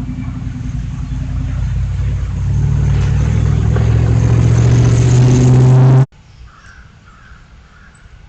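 A motor vehicle engine drawing nearer, growing steadily louder with a steady low hum, then cut off abruptly about six seconds in. Faint short bird calls follow.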